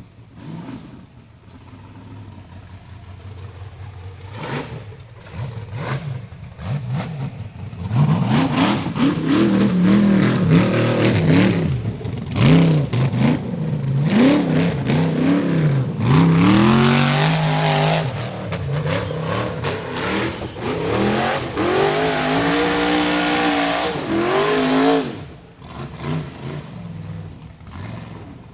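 Rock bouncer buggy engine revving hard in repeated bursts, its pitch sweeping up and down, loud from about a third of the way in until near the end. Before and after, it runs quieter with scattered knocks.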